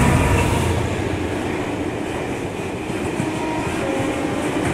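A train passing, a steady rumble and rattle of wheels over rail joints, loudest at the start and then holding a little lower.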